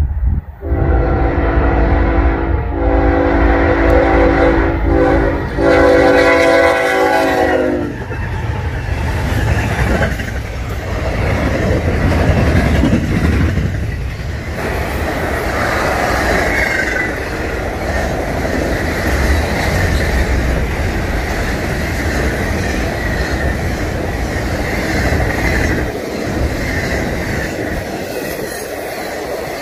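A BNSF freight diesel locomotive blows its air horn for about seven seconds, with a couple of brief breaks, as it approaches. The lead units then pass and a long intermodal train of trailers on flatcars rolls by with a steady rumble and wheels clacking over the rail joints.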